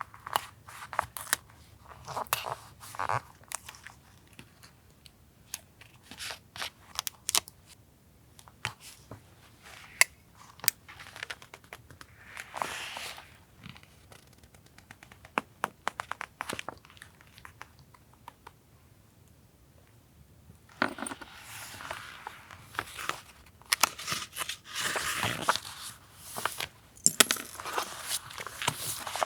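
Paper being handled for collage journaling: a run of light taps, clicks and short rustles of paper and stickers, then denser, longer crinkling and rustling of paper in the last third.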